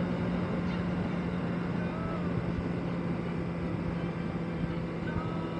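Honda CBR650R's inline-four engine running at a steady cruising speed, an even hum with overtones, under a steady rush of wind and road noise.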